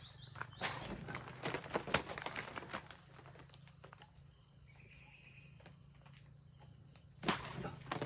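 Steady high-pitched insect chorus, with scattered steps, knocks and rustling in the first few seconds and again near the end.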